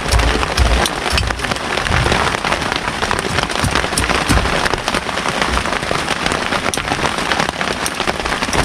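Heavy rain falling steadily, with many sharp individual drop hits over a dense wash of noise.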